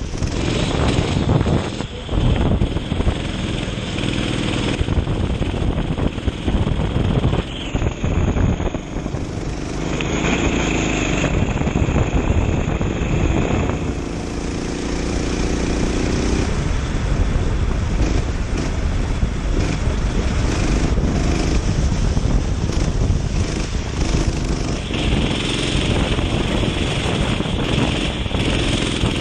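Kart engine revving and easing off in turn as it laps, pitch rising and falling, under a steady rush of wind noise.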